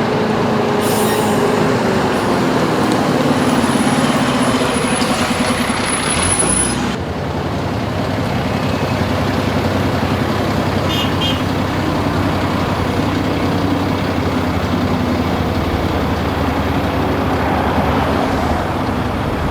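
Loud, steady drone of a heavy engine, with one tone falling in pitch over the first few seconds and the sound changing abruptly about seven seconds in.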